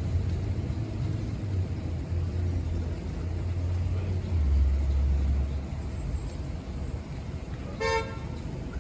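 Low, steady rumble of vehicle traffic, loudest in the middle as a vehicle passes. Near the end there is a brief high-pitched tone.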